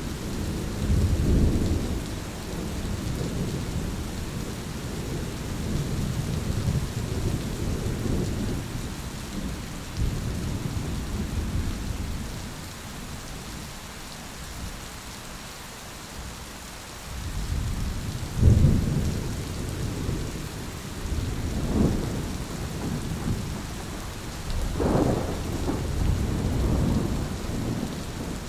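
Thunderstorm: steady rain with rolling thunder. The rumbling dies down for a few seconds in the middle, then comes back with a sharp, loud thunderclap followed by several more peals.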